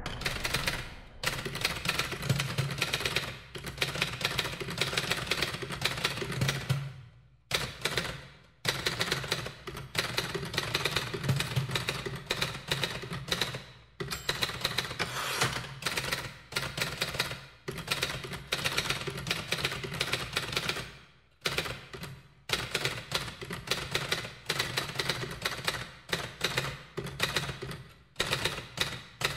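Typewriter keys clacking in fast runs of keystrokes, broken by short pauses every few seconds.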